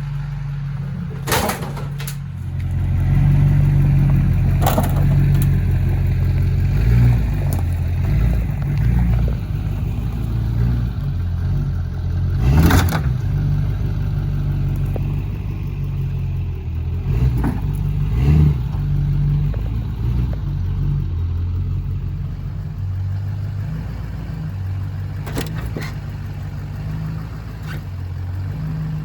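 LB7 Duramax 6.6-litre V8 diesel pickup running under load as it drags a strapped car by its trunk, with a handful of sharp metallic clanks and bangs scattered through.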